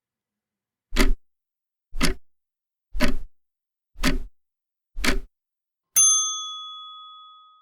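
Quiz countdown timer sound effect: five clock ticks, one a second, then a single bell ding that rings out and fades, marking the end of the thinking time.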